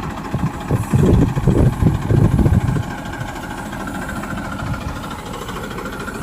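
Tractor diesel engine running, with a louder, rougher stretch of low pulsing for about two seconds near the start before settling back to a steady idle.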